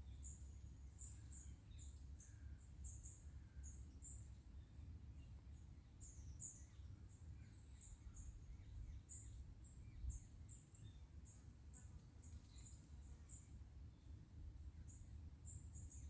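Faint woodland birds calling with short, high chirps repeated throughout, over a steady low rumble. A soft low thump comes about ten seconds in.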